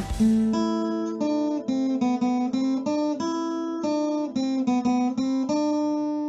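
Music: the full band stops and a solo guitar plays a slow melody of single plucked notes, the last one held and left ringing near the end.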